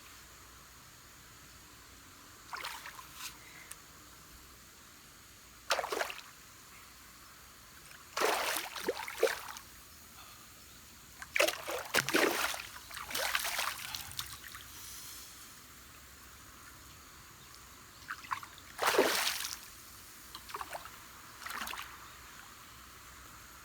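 Water splashing in short irregular bursts, loudest near the middle, over a faint steady hiss of the river.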